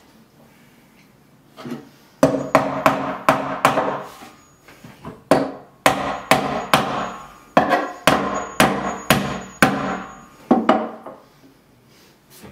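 Hammer blows, about two to three a second, struck in several runs with short pauses between; each blow rings briefly.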